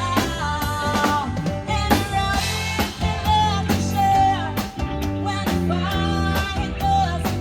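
A small band playing a rock cover: guitar and a steady beat, with a voice singing long, wavering notes.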